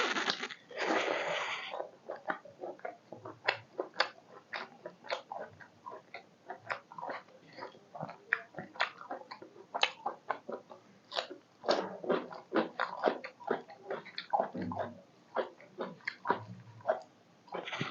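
Close-up eating sounds of rice and meat curry being chewed: a fast, irregular run of wet clicks and smacks from the mouth, with denser bursts about a second in and again around twelve seconds.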